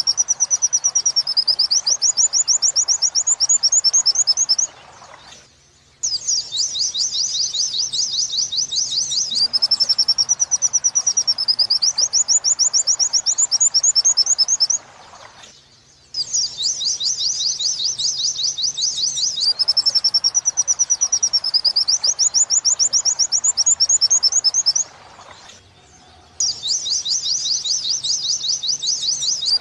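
White-eye (pleci) song in the 'wit-wit sambung kuntilanak' style: rapid high trills broken by rising-and-falling 'wit-wit' whistles. It is a looped mastering recording, so the same phrase of about ten seconds repeats three times, with a pause of about a second and a half between repeats.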